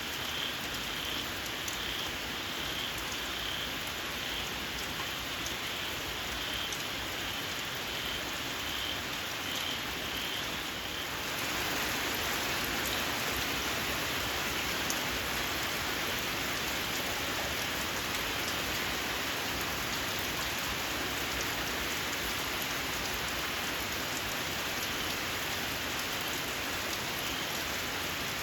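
Steady rain falling, growing heavier about a third of the way through. Over it a small frog gives a run of shrill, evenly spaced calls, a little more than one a second, which stops as the rain picks up and faintly returns near the end.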